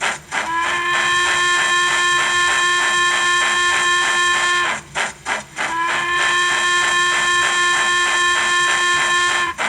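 Model steam locomotive sound decoder (ESU LokSound v5, Duchess sound project) playing a steam whistle: two long, steady blasts of about four seconds each. Under and between them the exhaust chuffs beat at about three or four a second, as the loco is running.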